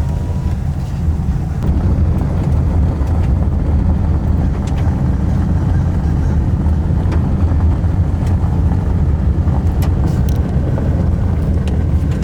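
Pickup truck driving off, a steady low rumble of engine and road noise heard from inside the cab, growing a little louder in the first couple of seconds.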